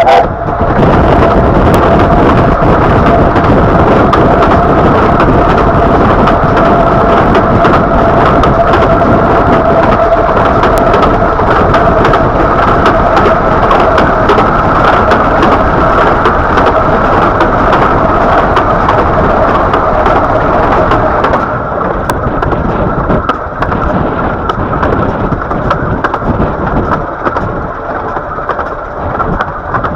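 Narrow-gauge steam train running, heard from the coach: a loud, steady rumble of wheels on rail with rushing air on the microphone and a held high tone through most of it. The hiss in the upper range falls away about two-thirds of the way through.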